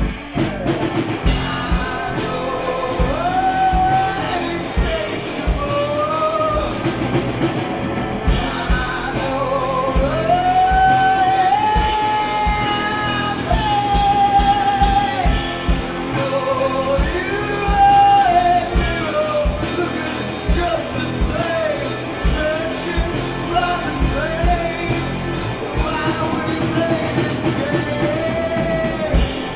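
Gypsy rock band playing live, with a lead voice singing a melody over drums, holding some notes with vibrato.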